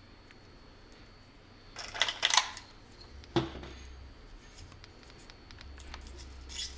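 Hand wire strippers working on the cord's ground wire: a quick flurry of snips and scrapes about two seconds in, then one sharp click.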